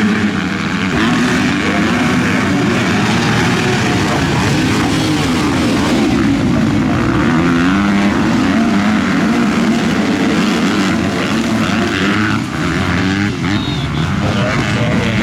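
Several MX2 motocross bike engines racing together, their overlapping pitches rising and falling as the riders rev up and back off through the track.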